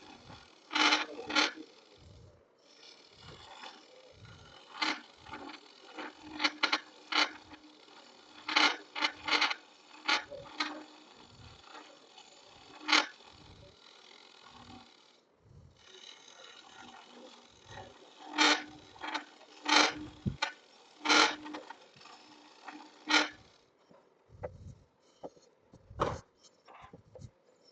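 Turning tool cutting a log spinning on a wood lathe: a run of short rasping scrapes, one for each pass of the tool, over the lathe's steady running noise. Near the end the cutting stops and only a few scattered knocks are heard.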